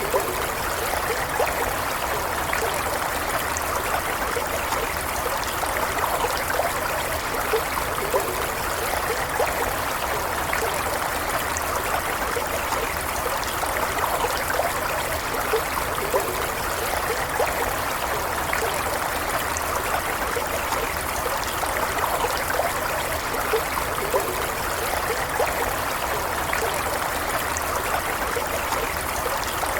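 A stream running steadily over stones, with small trickles and splashes.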